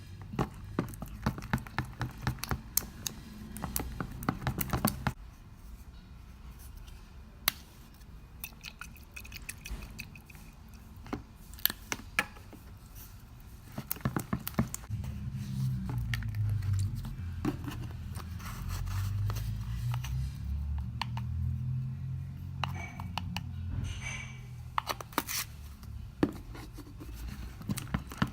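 Homemade slime being worked by hand, giving many small, irregular sharp clicks and pops, with a low rumble in the middle stretch.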